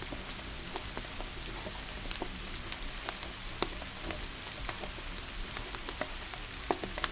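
Steady rain hiss with a wood fire crackling over it: irregular sharp pops and snaps, a few to several a second.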